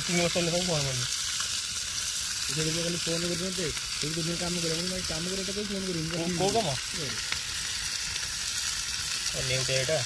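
Fish frying in a pan, a steady sizzle throughout. A muffled voice comes and goes in four drawn-out stretches.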